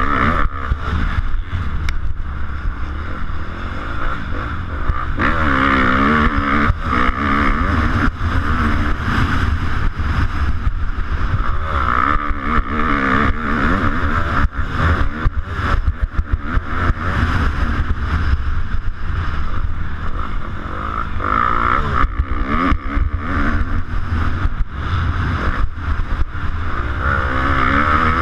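250cc motocross bike engine revving up and down continuously through a race lap, heard from a GoPro mounted on the bike or rider, with wind buffeting and bumps on the microphone.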